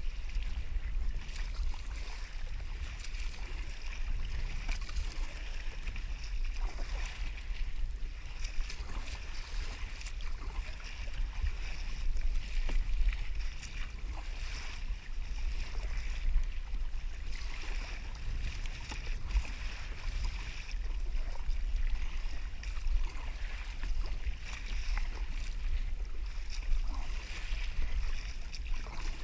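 Wind rumbling on the microphone of a kayak-mounted action camera, over water lapping and splashing against the kayak, with faint scattered knocks.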